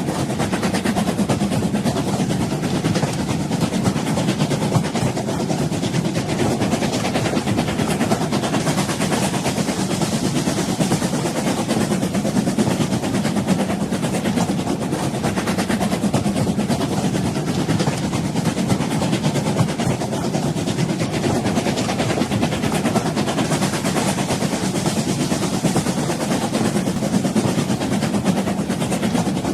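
An old train running: a steady, unbroken rumble that holds at the same level throughout.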